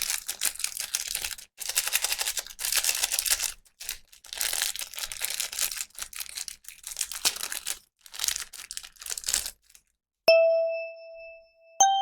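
Plastic packaging crinkling and tearing in repeated bursts as a toy is unwrapped. About ten seconds in, a bright chime rings out and fades, and another starts near the end.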